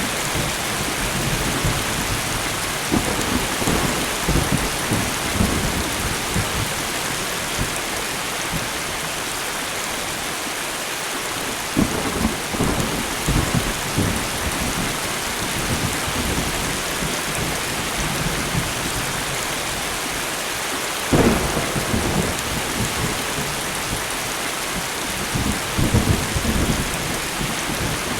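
Steady light rain with thunder rumbling several times, and one sharper thunderclap about two-thirds of the way through.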